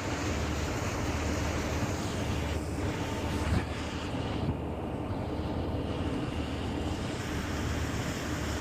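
Passenger ferry's engines droning steadily with a low hum, with wind buffeting the microphone. A brief bump about three and a half seconds in.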